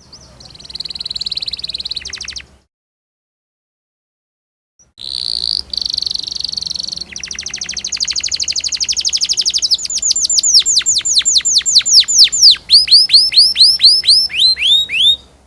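Domestic canary singing: a short rolling trill, a pause, then a long song phrase that starts as a fast rolling trill and turns into a series of loud, falling whistled notes that slow toward the end.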